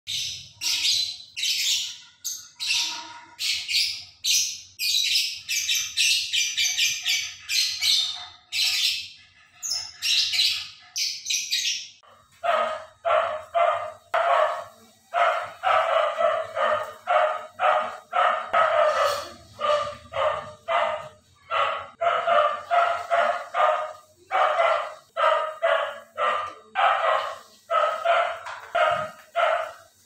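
Caged birds calling vigorously: a fast, high twittering for about the first twelve seconds, then lower, harsher calls repeated about two or three times a second.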